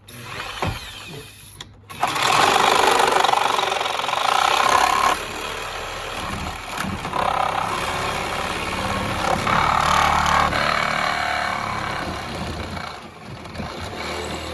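A power tool running loudly and steadily, starting about two seconds in and easing off near the end.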